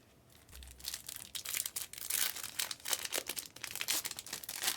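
Plastic or foil wrapping crinkling and tearing as a trading card box or pack is opened. It is a dense crackle that starts about half a second in.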